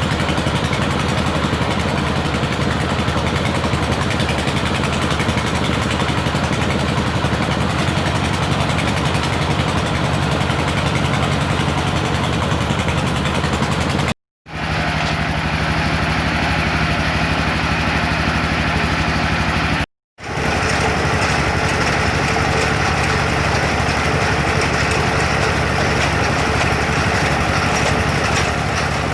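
Homemade well-drilling rig powered by a motor, running steadily with a low hum. It cuts out briefly twice, about halfway through and again some six seconds later.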